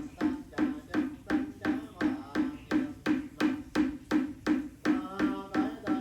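Wooden fish (mõ) temple block struck in a steady, even beat of about three strikes a second, keeping time for Buddhist prayer chanting, with faint chanting voices between the strikes.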